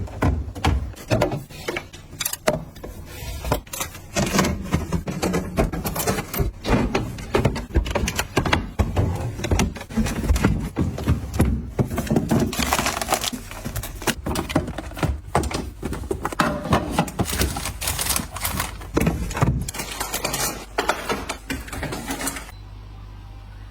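Rapid, irregular clicks and clatter of small hard objects being handled, over a low steady hum. The clatter stops near the end, leaving only the hum.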